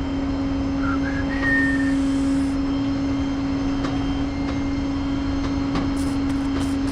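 Truck engine running steadily with a constant droning hum. A few light clicks come near the end.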